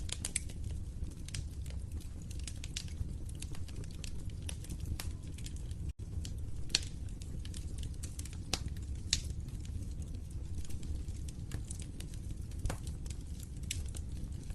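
Wood fire in a fireplace crackling, with sharp irregular pops over a steady low rumble of burning. The sound cuts out for an instant about six seconds in.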